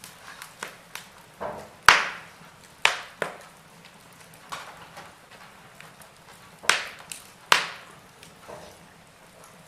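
Wood fire in a fireplace crackling, with sharp pops at irregular moments over a faint hiss. The loudest pop comes about two seconds in, and two more strong ones come about seven seconds in.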